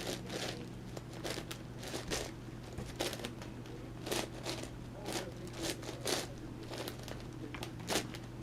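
Layers of a plastic 11x11x11 Rubik's cube being turned by hand: irregular clacks and scrapes, a few a second.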